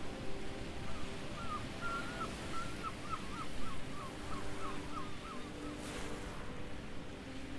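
A bird calling a run of about a dozen short chirps, slightly falling in pitch, over a steady low hum and a wash of noise; a brief rush of noise near the end.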